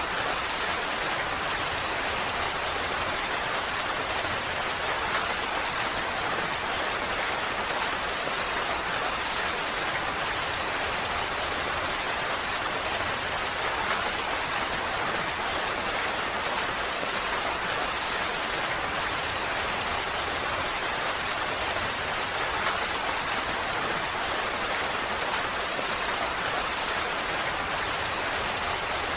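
Steady rain falling, an even hiss with scattered faint drop ticks and no change in intensity.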